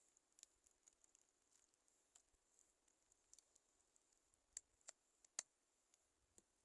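Near silence with scattered faint light clicks, three sharper ones between about four and a half and five and a half seconds in.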